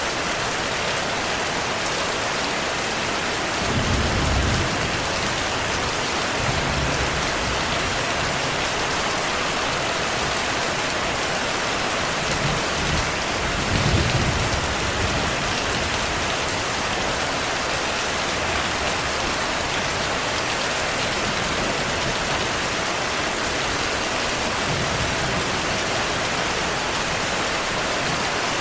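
Steady heavy rain hissing, with low rolls of distant thunder rumbling about four seconds in and again around the middle, loudest near halfway.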